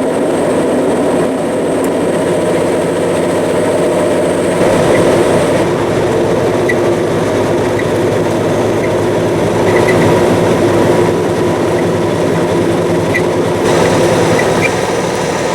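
A heavy vehicle running: a loud, steady rumble with a low engine drone, holding level throughout.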